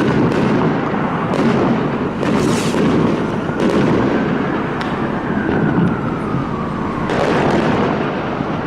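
Fireworks going off in quick succession, a dense run of overlapping bangs and crackles, with a falling whistle about five seconds in.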